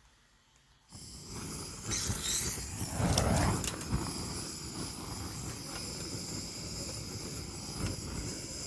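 Wood fire burning with a steady rushing noise and scattered crackles and pops. It starts suddenly about a second in.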